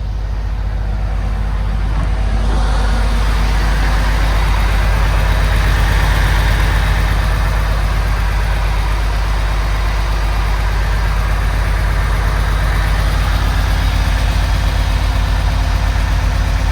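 Refrigerated trailer's diesel reefer unit running, its engine hum joined by a rush of fan noise that builds about two seconds in and then holds steady.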